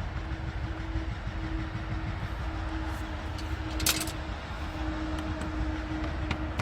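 Steady low mechanical drone of a running engine or machine, with a faint steady hum, and one sharp metallic clink from a tool about four seconds in.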